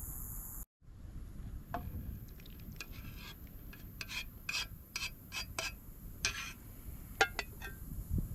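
A cooking utensil scraping and stirring in a pan in a run of short strokes, over a steady high hiss.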